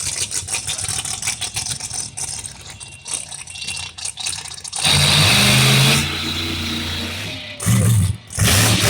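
Monster truck engine idling with a crackling rattle, then revving hard about five seconds in, easing off, and revving again in short blasts near the end.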